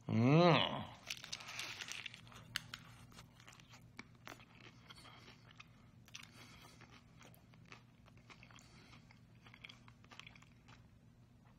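A bite into a crunchy fried corn tostada shell and chewing. A short voiced sound at the bite leads into a loud burst of crunching about a second in, followed by quieter crackling chews with scattered small crunches over a faint steady hum.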